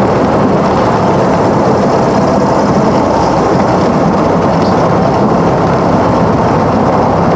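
Cessna 172's piston engine and propeller running steadily, a loud, even drone heard inside the cabin.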